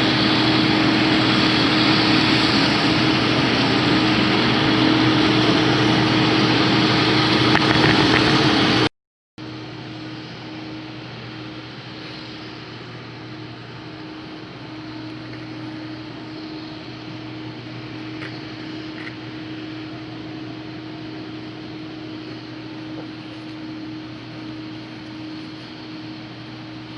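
Combine harvester running steadily in the field, loud and close for the first nine seconds; then, after an abrupt cut, the same steady engine hum heard quieter from farther off.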